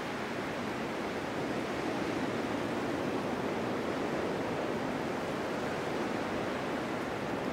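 Snowstorm wind blowing steadily, an even rushing hiss that rises slightly about a second and a half in.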